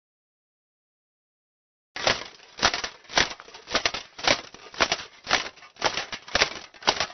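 Roman soldiers' marching footsteps, a steady tramp of about two steps a second that starts about two seconds in.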